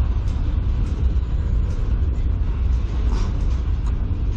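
Freight cars of a CN manifest train rolling past, a steady rumble of steel wheels on the rails as the train slows.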